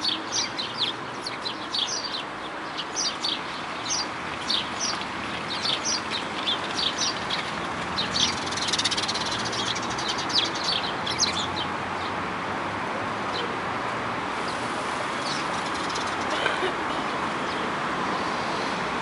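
Birds calling in many short, high chirps for about the first eleven seconds, then only a few scattered calls, over a steady background noise.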